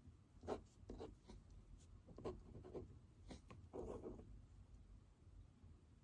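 Faint pen scratching on paper in short strokes, handwriting; the strokes stop about four and a half seconds in.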